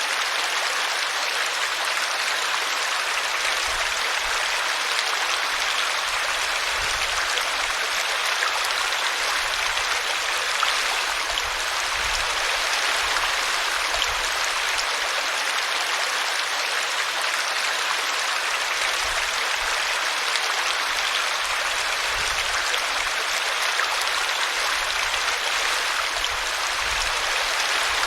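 Small brook babbling steadily as it runs over a tree root, a constant even rush of water.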